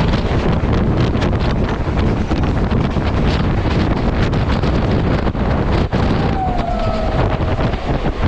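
Wind buffeting the microphone over a loud rumbling rush, with irregular clattering knocks throughout. A brief falling squeal is heard about six and a half seconds in.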